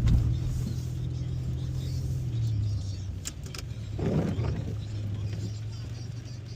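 Car engine and road noise from inside the cabin while driving: a steady low hum, with a few sharp clicks a little past three seconds and a short louder rumble about four seconds in.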